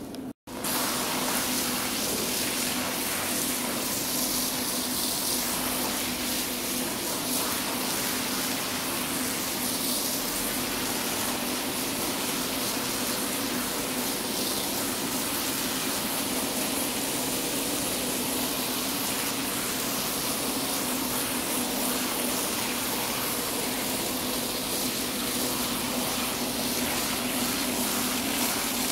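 Water spraying steadily onto a rug from a pressure washer, its pump motor running with a steady hum underneath. The sound starts suddenly just after a brief silent break near the start.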